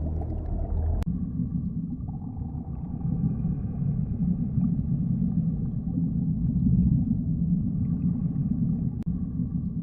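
Underwater ambience: a steady deep rumble with faint, long-held tones above it, and a click about a second in where the sound shifts.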